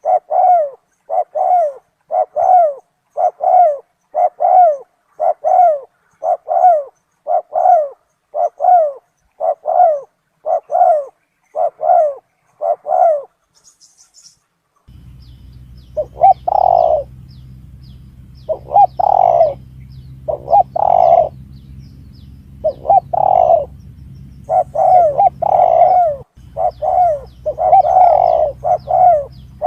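Spotted dove (tekukur) calls played as a bird lure: short coo notes repeated at a steady quick pace, about one and a half a second. About halfway through, a low steady hum enters beneath them, and the coos grow louder and come unevenly, singly and in close pairs.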